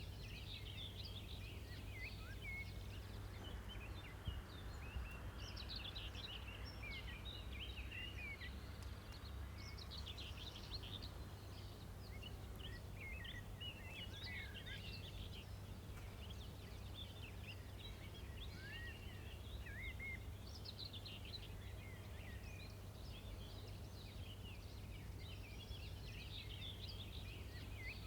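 Several birds chirping and singing continuously over a faint, steady low rumble of background noise.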